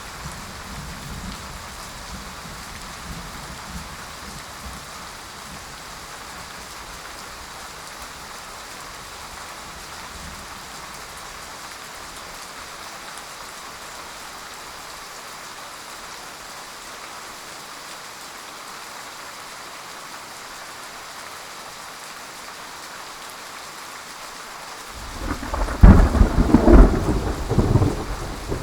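Steady heavy rain hissing, then near the end a loud clap of thunder that rolls and rumbles in several peaks.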